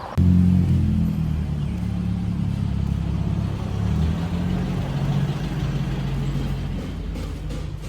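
Motor vehicle engine running close by: a steady low hum that starts abruptly just after the beginning, loudest in the first second, then settles a little lower.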